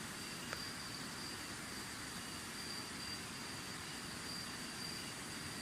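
A cricket calling with a steady, high-pitched trill over a steady rushing background hiss; one faint click about half a second in.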